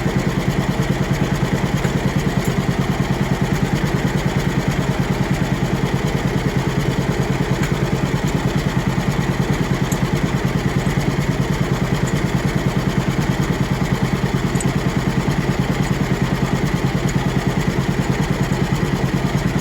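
John Deere Model B two-cylinder tractor engine idling with a steady, even pulse.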